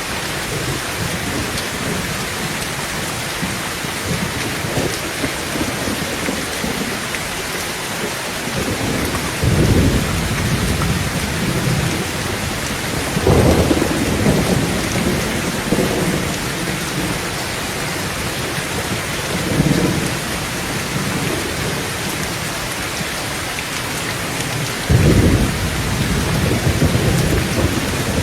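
Heavy rain falling steadily on a tin roof, with rolls of thunder rumbling over it four times: about ten seconds in, a longer roll from about thirteen seconds, again around twenty seconds, and a loud one near the end.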